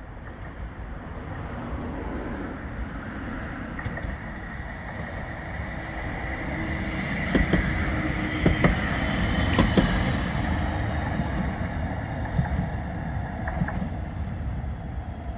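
A vehicle passing by, growing louder to a peak about two-thirds of the way through and then fading. It has a steady whine and a few sharp clicks as it goes past.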